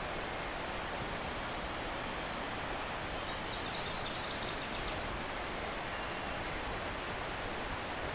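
Steady rushing outdoor background noise, with a small bird singing a short rapid trill of high notes about three seconds in and faint high chirps now and then.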